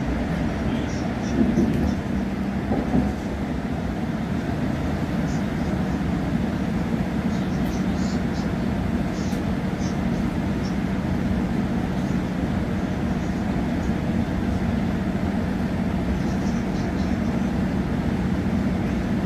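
Steady running noise of a passenger train heard from inside the carriage, with a low hum throughout and two brief louder knocks about a second and a half and three seconds in.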